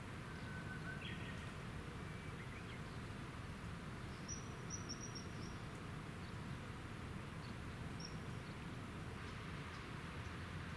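A few faint, short, thin bird whistles over a steady outdoor background hiss: a couple of lower ones in the first seconds, then higher, very thin ones near the middle and again near the end.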